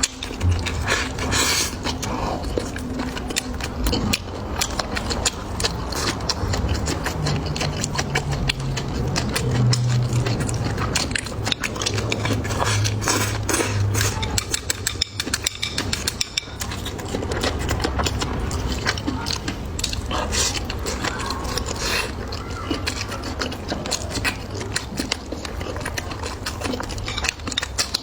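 Close-miked eating: chewing and biting on food, with irregular wet clicks and crunches.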